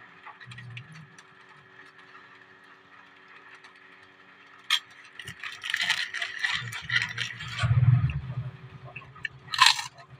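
Close-up eating sounds: crackly crunching and chewing with clicks, thickest for a couple of seconds past the middle. One loud sharp crackle comes near the end.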